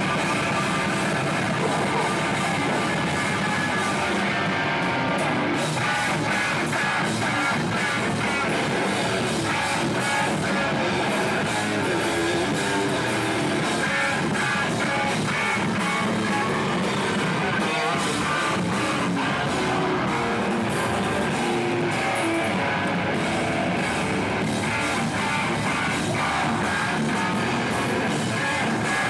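Hardcore band playing live at full volume: distorted electric guitars, bass and drums in a dense, unbroken wall of heavy music.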